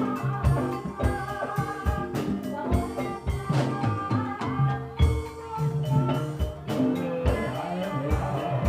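Javanese ebeg gamelan music: drums beating about twice a second under ringing struck metallophone notes, with a singing voice.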